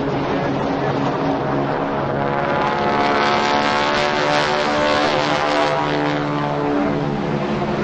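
Piston-engined propeller aircraft flying past at a display, its engine note swelling to a peak a few seconds in and then easing off.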